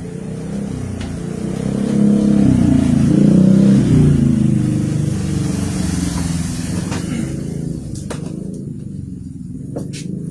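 A motor vehicle engine going by, growing louder to a peak a few seconds in and then fading away, with a few sharp clicks near the end.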